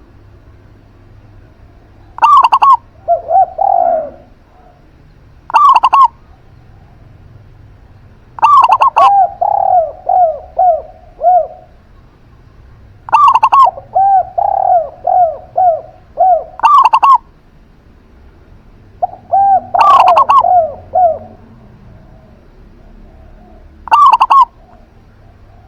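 Zebra dove and spotted dove cooing. There are about seven bouts of calling, each made of sharp loud coos, several of them followed by a run of quicker, softer, falling notes.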